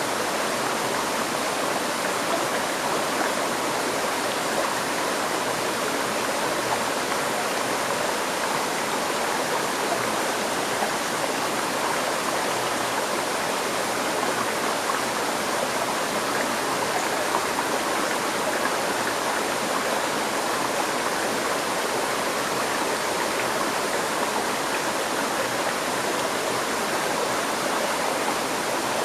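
River stream flowing over rocks: a steady, even rush of water with no change throughout.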